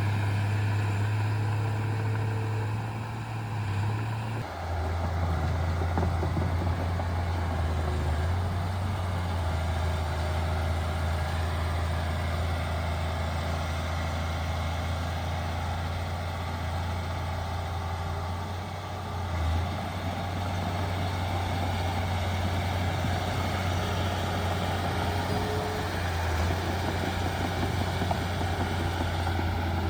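Heavy diesel engine running steadily with a low drone; the sound shifts abruptly about four seconds in, then carries on evenly.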